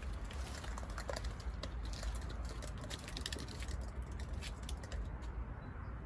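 A quick, irregular run of small light clicks and taps, densest in the middle, over a steady low rumble.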